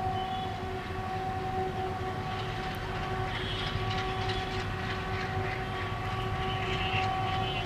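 Indian electric-locomotive-hauled express train running by, with a steady pitched drone held almost throughout over a low rumble. From about three seconds in, wheel-on-rail rattling and clicks grow louder.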